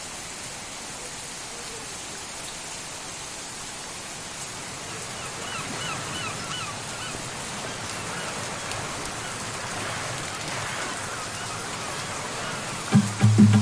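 Heavy rain falling steadily onto flooded street water, an even hiss with no break. About a second before the end, music with a strong beat starts up.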